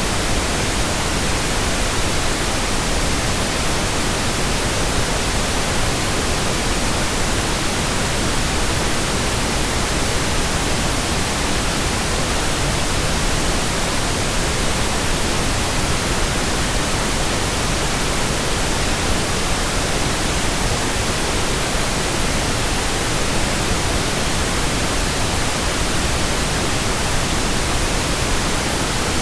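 Steady white noise: an even, unchanging hiss spread evenly from low to high pitches, with no other sound.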